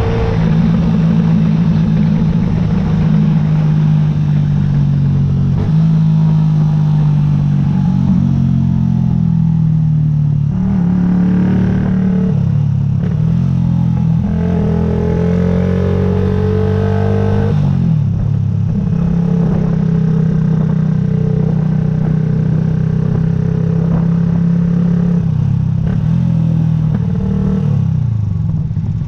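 Yamaha YZF-R125's single-cylinder four-stroke engine running under way on the move, with steady stretches. The pitch drops and climbs again a few times, about a third of the way in, a little past halfway, and near the end, as the throttle and gears change.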